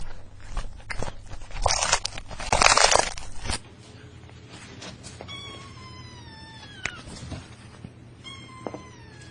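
Loud rustling and knocking noises for the first few seconds, then a cat meowing: two long, drawn-out meows, each dropping in pitch at the end.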